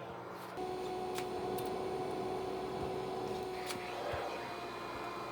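Vacuum cleaner running with a steady whine over a hum, stepping up in level about half a second in, with a few faint clicks.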